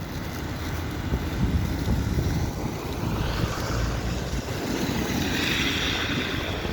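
Blizzard wind buffeting the microphone with a heavy low rumble, and a hiss that swells about halfway through and holds.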